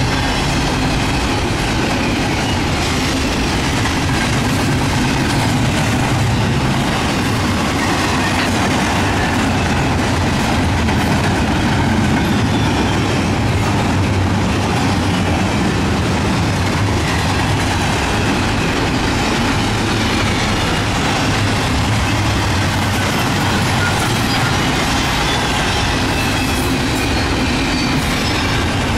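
Double-stack intermodal container train's well cars rolling past at speed: a steady, loud rumble and rattle of steel wheels on the rails.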